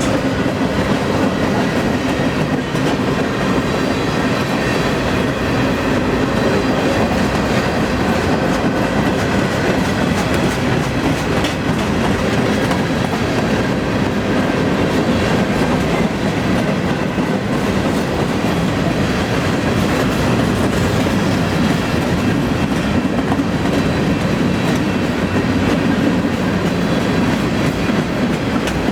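Freight train cars rolling slowly past at about 16 mph, with the steady rumble and clatter of steel wheels on the rails.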